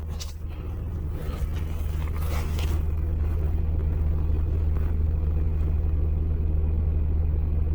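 Steady low rumble of a car heard from inside the cabin, growing slightly louder, with a few faint handling rustles in the first few seconds.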